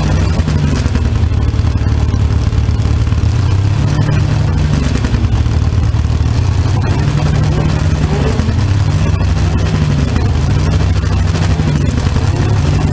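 A vehicle engine running steadily at low revs, its low hum rising and falling gently in pitch every few seconds.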